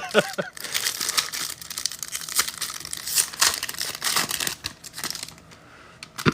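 A foil trading-card pack being torn open and its wrapper crinkled: a quick run of crackles and tearing that dies down about five seconds in.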